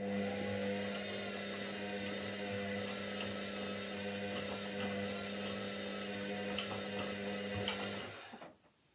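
Washing machine motor running with a steady whine and a few light ticks, then cutting out about eight seconds in.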